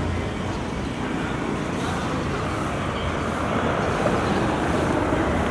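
Steady outdoor road traffic noise, a continuous rumble without distinct events.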